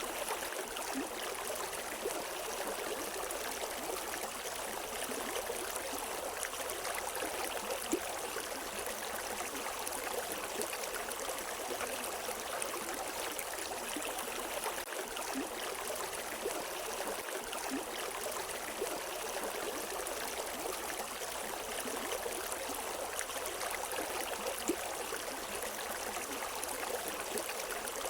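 River water running over rocks, a steady rushing and gurgling flow with a few brief splashes.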